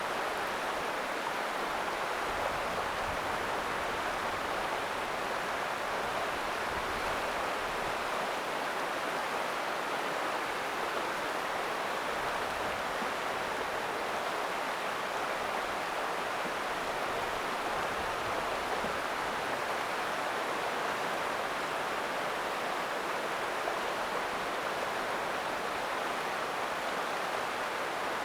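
River water rushing steadily over rocks, an even rushing sound with no pauses or separate events.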